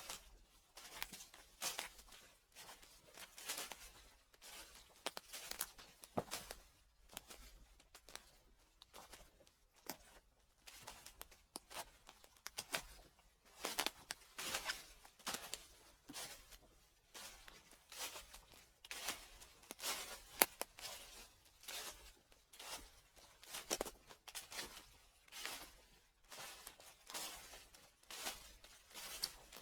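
Footsteps crunching and crackling through fallen leaves at a steady walking pace, about one step a second.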